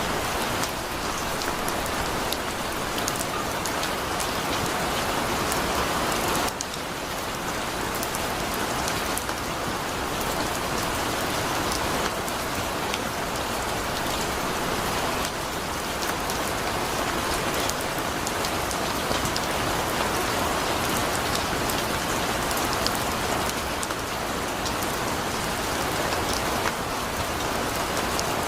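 Heavy rain falling steadily: a dense, even hiss of countless drops with fine patters through it.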